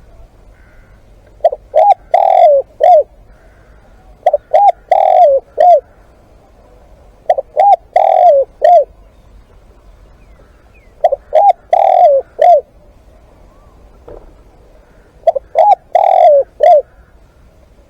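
Spotted dove cooing: five phrases, each of two short coos, a longer falling coo and a short final coo, repeated about every three seconds.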